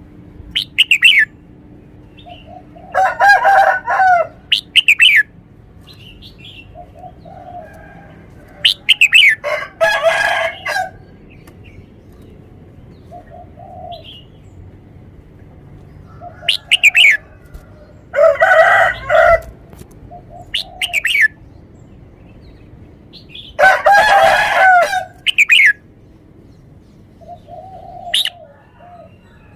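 Red-whiskered bulbul singing short, clear whistled phrases every few seconds, with four longer, louder calls mixed in.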